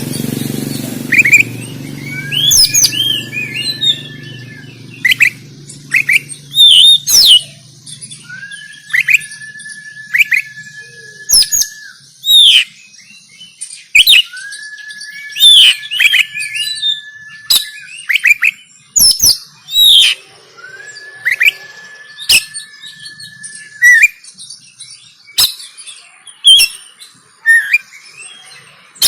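Oriental magpie-robin (kacer) singing in excited fighting mode: a rapid string of sharp, downslurred whistles and chirps, broken four times by a long level whistle held for two to three seconds.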